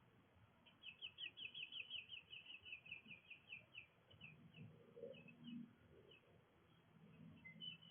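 A bird's faint series of short, quick chirps, rapid at first and then slowing and thinning out over about three seconds, with a few scattered notes after.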